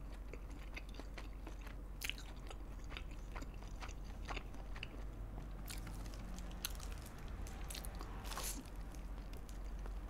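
Close-miked chewing of sauce-glazed fried chicken: soft, wet mouth clicks and small crunches, with a bite into a chicken drumstick near the end.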